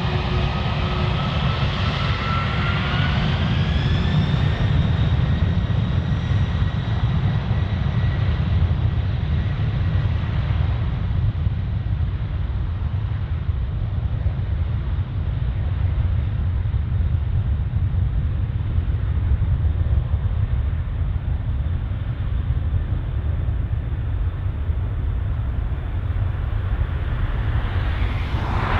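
Jet airliner engines spooling up: a whine rises in pitch over the first four seconds and then holds steady over a loud, continuous deep rumble. The sound changes abruptly near the end.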